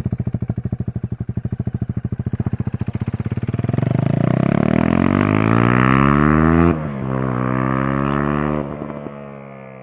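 KTM 390 Duke's single-cylinder engine through a Leo Vince aftermarket exhaust, idling with a distinct pulsing beat, then revved up about three and a half seconds in. The revs are held high, drop suddenly near seven seconds, hold again, then fall back toward idle near the end.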